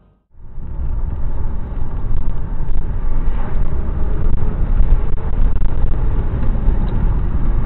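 Steady low rumble of a moving vehicle's road and engine noise as picked up by a car's dashcam, starting abruptly about a quarter second in.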